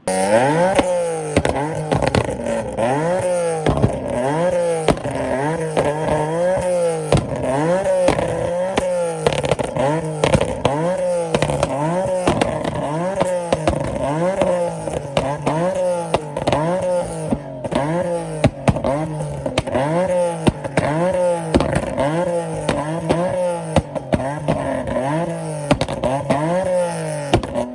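A car engine being revved over and over, its pitch rising and falling about once a second.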